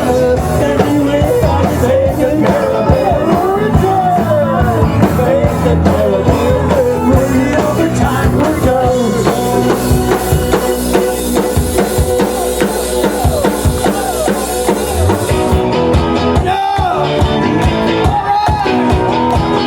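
Live rock band playing a rock-and-roll number: drum kit, amplified guitar and bass with a singing voice, loud and continuous.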